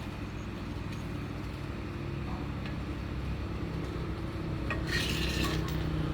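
An engine running steadily and slowly growing louder, with a short scraping rub about five seconds in.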